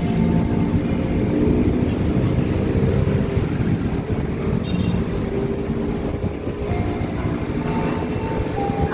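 Diesel-electric locomotive hauling a passenger train, the engine and the wheels on the rails making a steady rumble, with a brief high-pitched squeal about halfway through.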